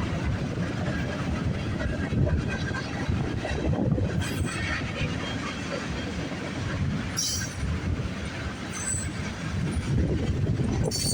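CN freight train's cars rolling past on the rails: a steady rumble of wheels, with a few brief high-pitched wheel squeals.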